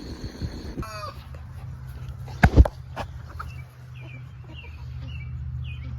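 Chickens clucking, with a short call about a second in and brief little calls after. Two loud sharp knocks come about two and a half seconds in, over a steady low rumble.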